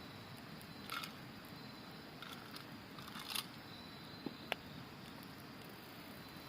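Wood campfire crackling, with a few sharp pops about a second apart near the middle, over the steady rush of a river. Autumn insects trill faintly in a thin high tone that comes and goes.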